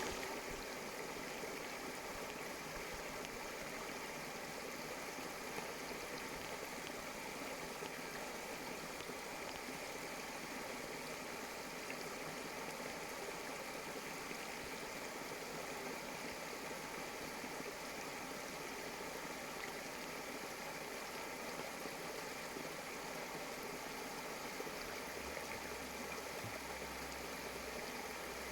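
Water of a stream running steadily, an even rushing hiss. A faint low hum comes in near the end.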